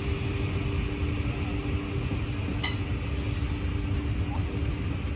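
Train running with a steady low rumble, with a single sharp click about two and a half seconds in.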